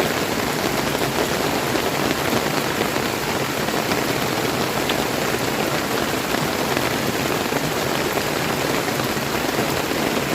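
Steady rain falling together with the running water of a river: a dense, even hiss.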